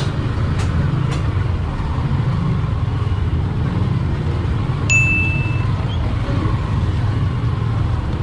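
Motorcycle on the move: a steady low rumble of engine and wind noise on the microphone, with a short high beep about five seconds in.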